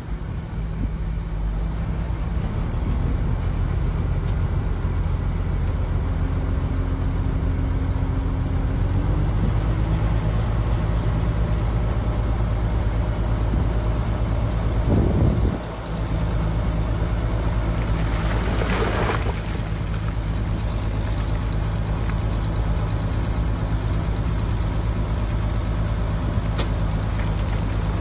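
Heavy diesel engine of earthmoving machinery running steadily under load, building up over the first couple of seconds. The sound dips briefly about fifteen seconds in, and a short burst of hiss comes about nineteen seconds in.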